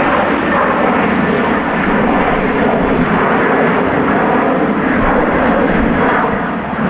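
A jet airliner's engines running close by, a loud, steady noise without breaks.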